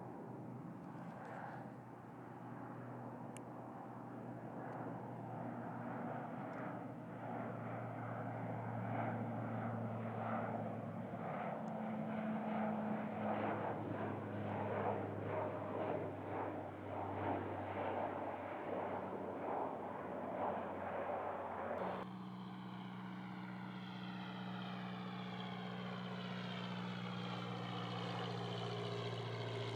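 Airplane flying overhead: a steady engine rumble with a low hum that swells to its loudest around the middle. Near the end it changes abruptly to a steady drone with a sweeping, shifting tone above it.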